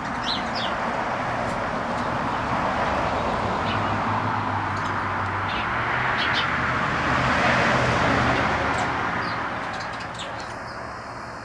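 A passing vehicle: a broad rushing sound with a low hum swells to its loudest about eight seconds in, then fades. Short bird chirps sound over it.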